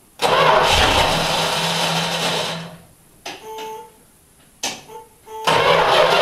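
Dodge Charger's 318 small-block V8 being cranked by its starter for about two and a half seconds without catching, two short sounds after a pause, then about five and a half seconds in the engine fires and keeps running.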